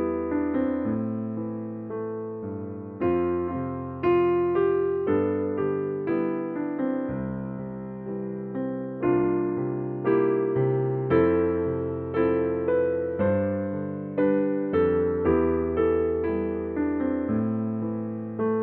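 Soft background music on electric piano: slow chords struck about once a second, each fading away before the next.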